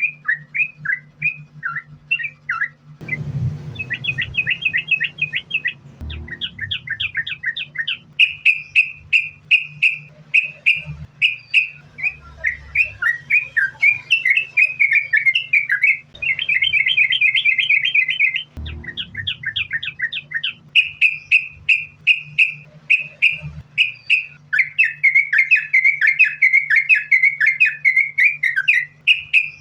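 Yellow-vented bulbul (trucukan) singing a fast, unbroken run of short chattering notes, several a second, in the continuous 'sambung ropel' style. A faint steady low hum runs underneath.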